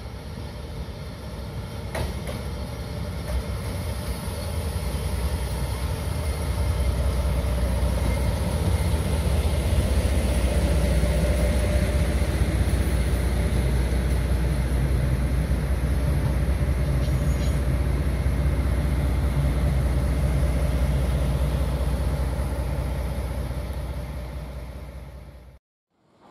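A diesel locomotive hauling a track-inspection car passes close by, its engine and wheels making a loud, steady low rumble that builds over the first few seconds and fades near the end. The sound then cuts off abruptly.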